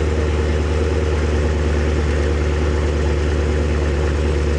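Car engine idling steadily close by, with a low, even exhaust note.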